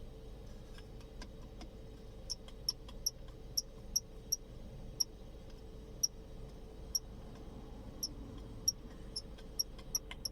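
Short high squeaks, irregular at about one or two a second, starting about two seconds in, from a Skoda Octavia A5's centre armrest. The squeak comes from a plastic part rubbing against a metal part.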